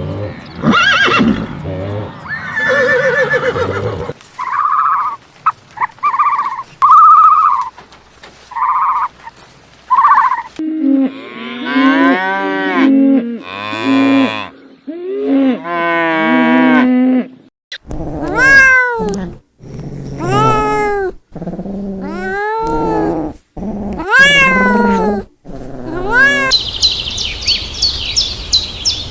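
A run of different animal calls, one recording after another: short repeated calls, then longer calls that rise and fall, then a series of arched, falling calls, and finally rapid high-pitched chirping near the end.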